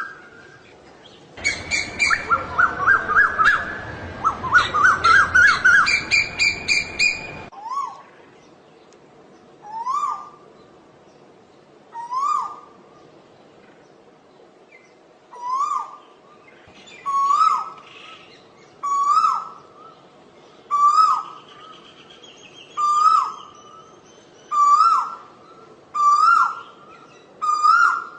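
Asian koel calling. First comes a rapid run of short rising notes over louder background noise. Then single rising calls repeat every two seconds or so, coming quicker and slightly higher toward the end.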